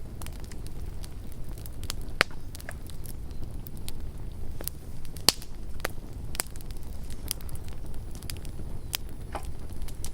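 Campfire crackling: irregular sharp pops and snaps of burning wood over a low steady rumble, the loudest pops about two and five seconds in.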